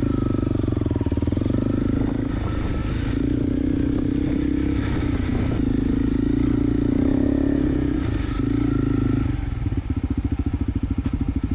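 Single-cylinder engine of a Honda CRF250L dual-sport motorcycle running under throttle on a rough trail, with some clatter. About nine and a half seconds in, the engine note drops to a slower, chugging beat as the throttle comes off.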